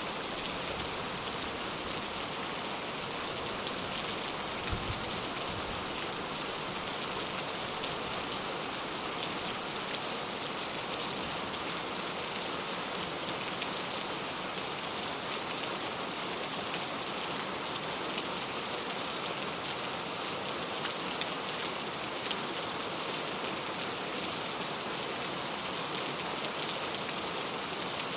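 Steady rain falling: an even hiss with scattered ticks of single drops and a soft low thump about five seconds in.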